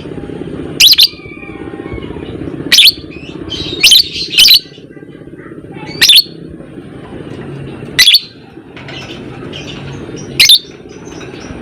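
Lovebird calling: seven short, shrill chirps a second or two apart over a continuous fast, buzzy chatter, the lovebird's 'ngekek' song.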